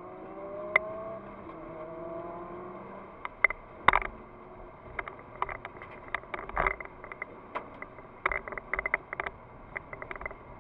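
Nissan GT-R R35's twin-turbo V6 heard from inside the cabin, pulling with its pitch rising over the first three seconds, then easing off. In the second half, a run of sharp clicks and a couple of heavier thumps comes over the engine.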